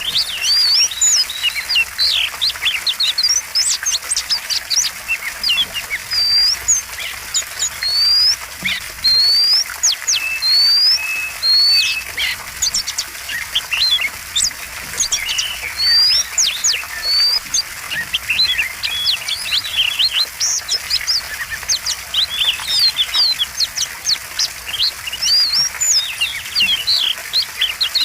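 Oriental magpie-robin (kacer) singing a fast, varied song of short chirps, sharp rising whistles and mimicked notes, with hardly a pause.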